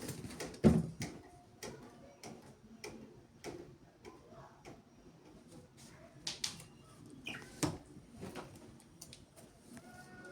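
Irregular sharp clicks and taps at an uneven pace, the loudest about a second in and again near eight seconds, with faint short chirps between them.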